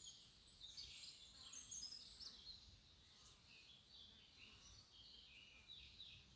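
Faint, high-pitched bird chirps and twitters, busiest in the first two seconds or so, then sparser.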